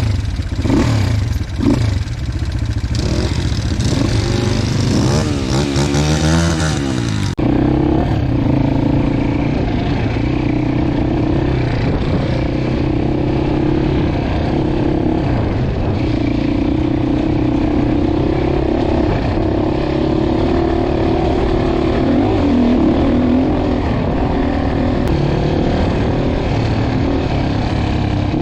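Dirt bike engine running under riding load, revving up and down with some clatter. About seven seconds in the sound changes abruptly to a steadier, duller engine drone.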